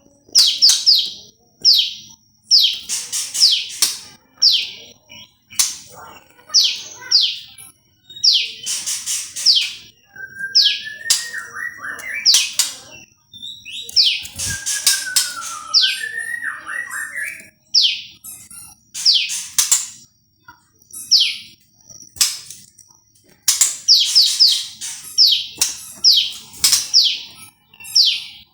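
Prenjak lumut, a prinia, calling loudly in quick runs of sharp, high, downward-sweeping notes, repeated every second or two with short pauses. A few lower sliding whistles come in about 11 and 15 seconds in.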